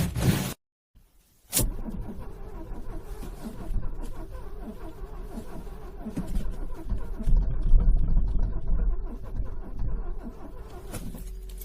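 Car engine being cranked by its starter in freezing cold, struggling and not catching: a low, uneven churning with a steady whine over it, getting louder in the middle.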